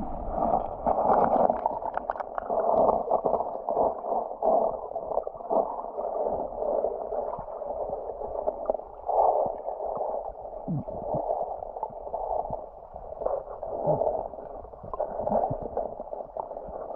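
Muffled water gurgling and sloshing, rising and falling unevenly in loudness, with a few faint knocks.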